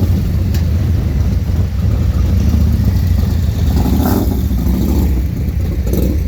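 Motorcycle engine running steadily with a deep low rumble.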